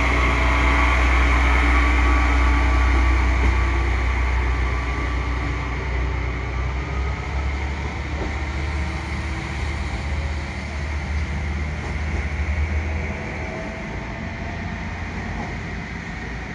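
A train running past on the rails, its deep rumble loud at first and fading away, dropping off sharply near the end.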